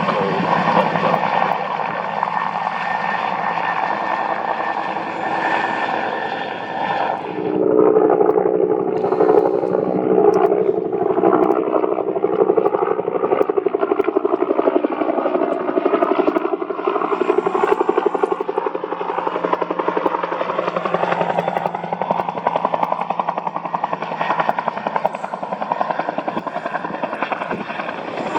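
UH-1N helicopter flying close by: a loud, continuous rotor beat with engine whine. The pitch shifts and the sound changes character abruptly about seven seconds in.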